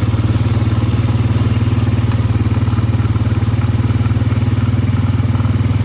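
ATV engine running at a steady speed while riding, a rapid even throb that holds one pitch.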